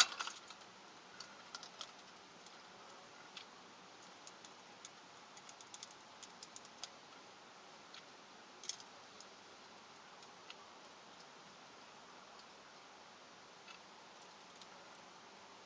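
Scattered light clicks and taps, irregular and fairly frequent for the first several seconds, with a sharper click about nine seconds in, then only a few faint ticks over a steady low background.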